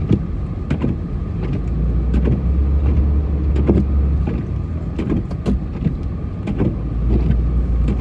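Vehicle engine running with a low rumble that swells twice, under scattered short knocks and thumps.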